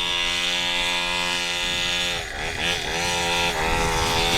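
49cc two-stroke mini dirt bike engine running at high revs. The revs drop and wobble a little past halfway, then pick back up to the same steady high pitch.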